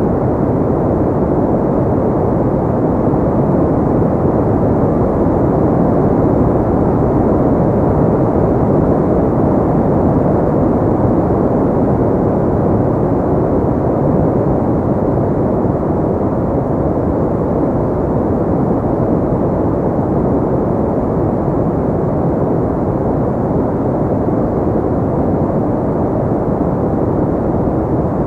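Steady sleep noise: an even, deep, muffled rushing hiss that does not change, with most of its sound in the low and middle range and little treble.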